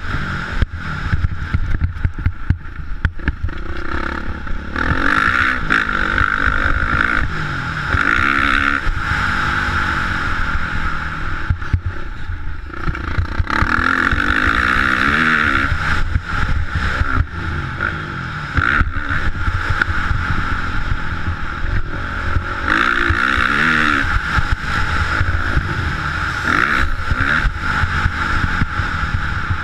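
Motocross bike engine being ridden hard, its pitch rising and falling again and again as it revs up and backs off, with many short knocks throughout.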